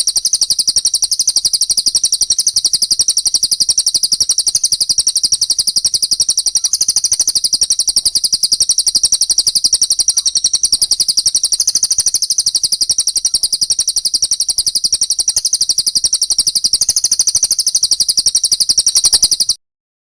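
Songbird masteran recording: a loud, rapid, unbroken run of high, chattering chirps, cutting off suddenly just before the end.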